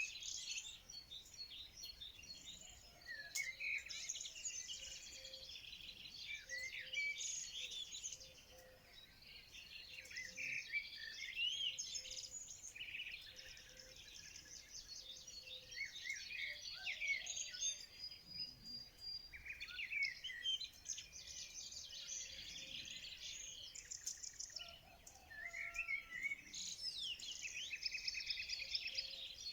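A chorus of many songbirds chirping and singing at once, short overlapping calls and trills with no pause. A faint, evenly repeated low note sits beneath them for a while in the middle.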